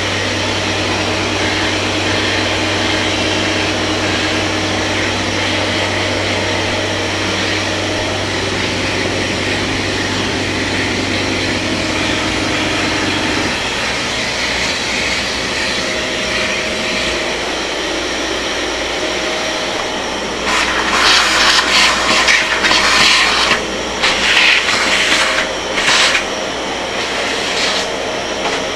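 Kärcher MV 6 P Premium wet-and-dry vacuum cleaner running steadily. A low hum under it stops about halfway through. In the last third the suction noise surges in loud, irregular hissing bursts.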